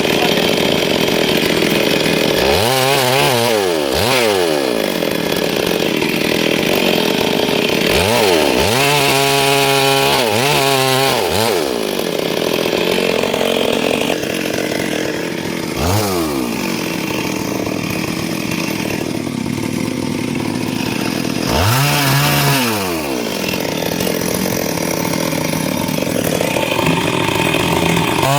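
Stihl MS382 two-stroke chainsaw cutting wood at high revs. Several times the engine pitch drops and climbs back up as the throttle is eased and opened again.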